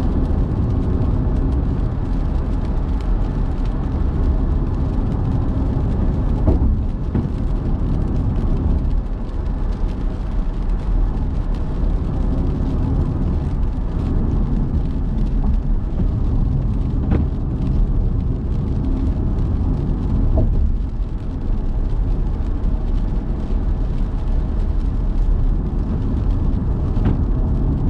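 Car driving through city traffic: a steady, low rumble of engine and road noise.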